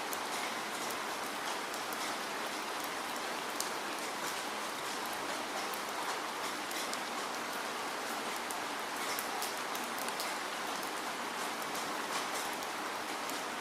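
Steady rainfall: an even hiss with many fine drop ticks.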